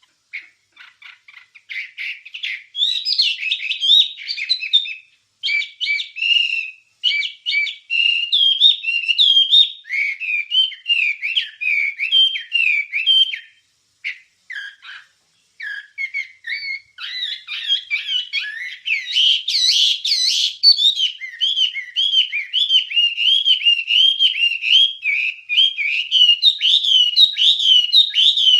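Wambie songbird singing a fast, continuous warbling and chattering song of quick whistled notes. It breaks off briefly about halfway through, then resumes denser and busier.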